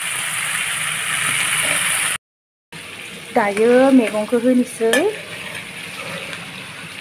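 Chicken pieces in a thick masala sizzling in a non-stick pan while a metal spatula stirs them, with a few scraping clicks from the spatula. The sound cuts out for a moment about two seconds in. A voice is heard briefly between about three and five seconds, then the sizzling goes on more quietly.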